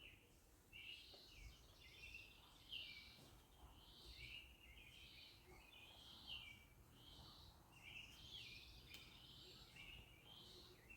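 A bird calling: a long run of short, similar notes, about two a second, faint against quiet outdoor background noise.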